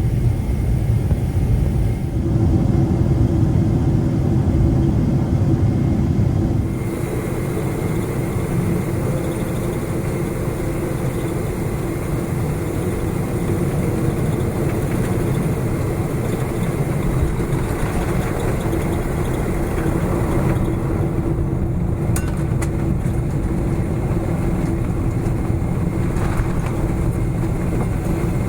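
Boeing 777-300ER jet airliner cabin noise: a loud low rumble for the first several seconds, then, after an abrupt change about seven seconds in, a steadier engine hum with a constant whine, and a few faint clicks near the end.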